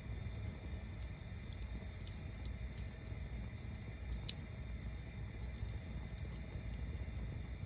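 Tower bonfire of stacked wood burning: a steady low rumble of flames with scattered sharp crackles and pops.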